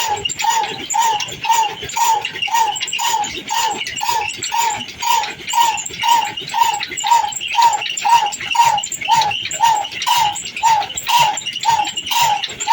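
Old diesel engine running slowly and steadily, its exhaust beat coming evenly about twice a second.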